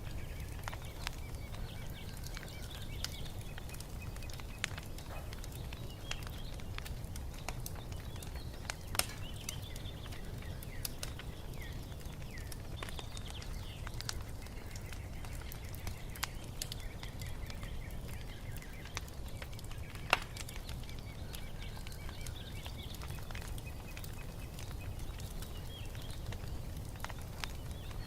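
Wood fire crackling in a fireplace: scattered sharp pops and snaps over a low steady rumble, with two louder pops about nine and twenty seconds in. Small birds chirp faintly in the background.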